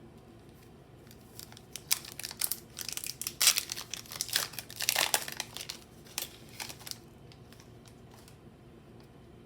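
Foil wrapper of a Pokémon booster pack crinkling and tearing as it is opened by hand. It starts about two seconds in and lasts about five seconds, loudest in the middle.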